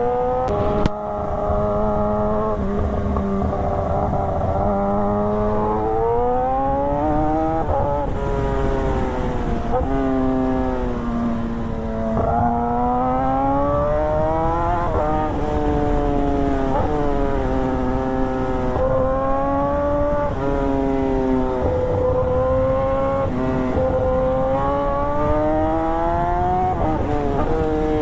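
A vehicle engine pulling steadily, then repeatedly revving up and dropping back sharply every two to three seconds as it works through the gears.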